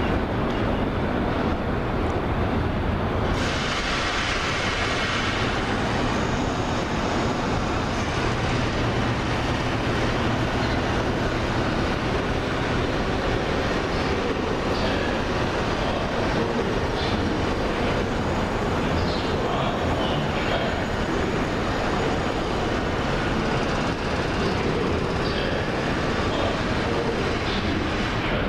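CSX double-stack container train's cars rolling steadily across a steel bridge: a continuous rumble and clatter of wheels on rail.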